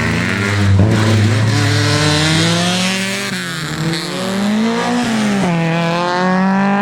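Peugeot 205 GTI rally car's engine revving hard, its pitch climbing and dropping several times as the driver lifts and changes gear.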